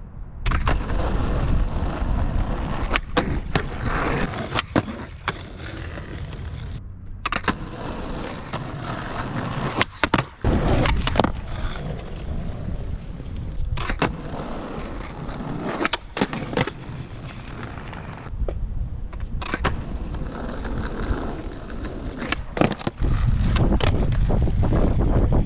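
Skateboard wheels rolling over pavement, broken again and again by sharp clacks of the board striking the ground. The rolling rumble gets louder near the end.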